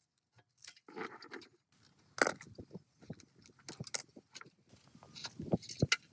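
Metal parts and hand tools clinking, knocking and scraping in an irregular run, with a few sharper knocks standing out. The sounds come from hands-on work on rusted generator parts.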